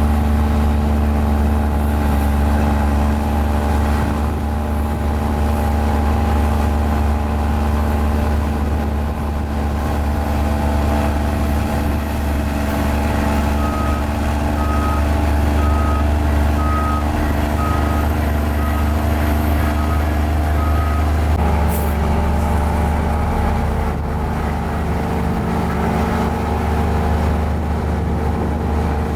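Mini Komatsu bulldozer's diesel engine running steadily under load, with a reversing alarm beeping about once a second for several seconds around the middle. The engine note shifts just after the beeping stops.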